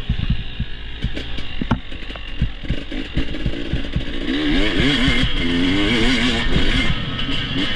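Enduro dirt bike riding over rough trail: a run of knocks and clatter from the bike bouncing over the ground, then about four seconds in the engine note wavers up and down as the throttle is worked.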